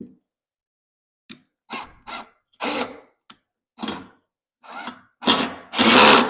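Power drill driving screws into wood in a series of short bursts, the last one longest and loudest.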